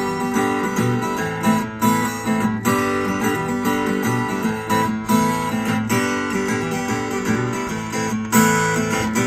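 Instrumental break in a song, led by strummed acoustic guitar with steady regular strokes.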